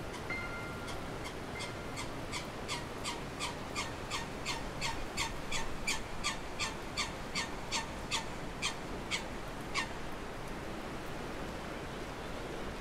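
A bird giving a rapid run of short, sharp calls, about three a second, that stops a few seconds before the end.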